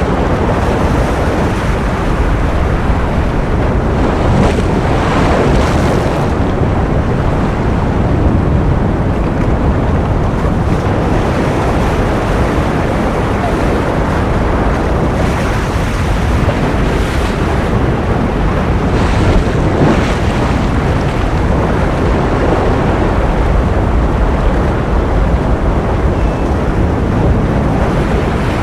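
Ocean surf noise: a dense, steady rush, heaviest in the low range, with faint swells every few seconds.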